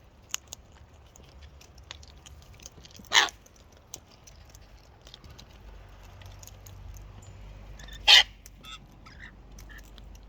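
Two short, harsh cockatoo screeches, about five seconds apart, with faint clicks in between.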